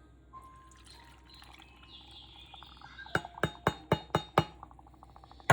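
Faint pouring into a glass container, then a run of six quick, sharp glass clinks at about four a second, a fast fading rattle of lighter ticks, and one last clink near the end.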